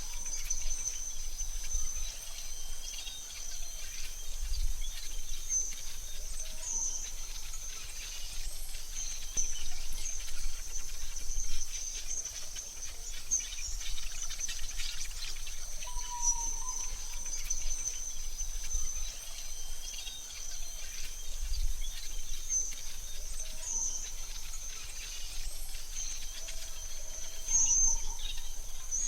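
Forest ambience: a steady high-pitched insect trill runs throughout, with a few short bird chirps over it, the clearest about halfway through.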